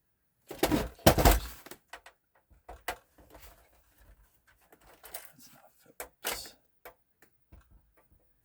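Knocks, clatter and small clicks of console parts and screws being handled while a PS4 Pro is taken apart with a screwdriver. The loudest knocks come in a cluster about a second in, then lighter clicks and rattles.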